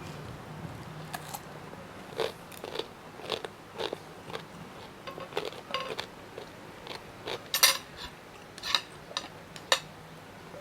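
Close-miked eating: irregular short, crisp crunches and clicks from biting and chewing crunchy green mango salad, about a dozen, the sharpest two about three quarters of the way through and just before the end.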